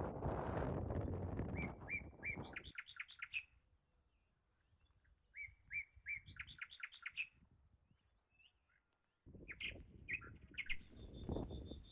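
A songbird singing: two phrases of quick repeated notes, each climbing in pitch, a few seconds apart, then a few shorter calls near the end. A low rumble covers the start, stops, and comes back near the end.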